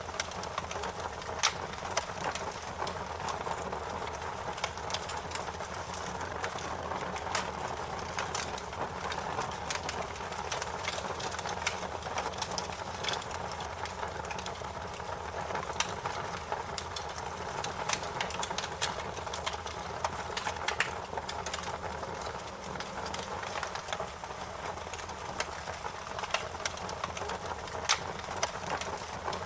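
Wood fire crackling: frequent sharp pops and snaps scattered irregularly over a steady hiss.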